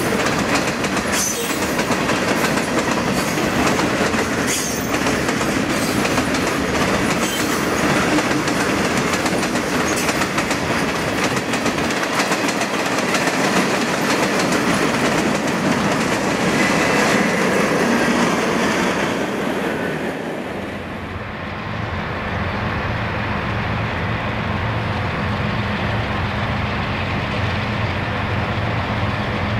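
Freight cars rolling past close by, their steel wheels clicking rhythmically over the rail joints. About two-thirds of the way through this gives way to the steady low engine drone of a diesel freight locomotive approaching from a distance.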